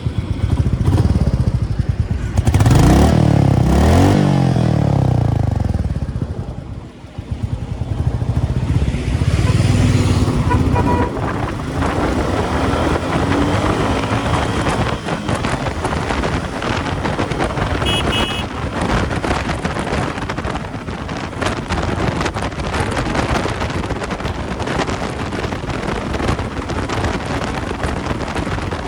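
Royal Enfield Meteor 350's single-cylinder engine accelerating hard: the revs climb and drop at a gear change about four seconds in, ease off briefly around seven seconds, then pull again. The bike settles into a steady high-speed run with heavy wind buffeting on the microphone.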